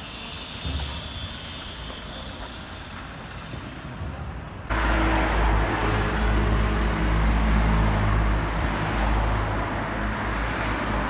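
Motor vehicle noise: a steady low rumble with hiss, which jumps suddenly louder about five seconds in and stays loud.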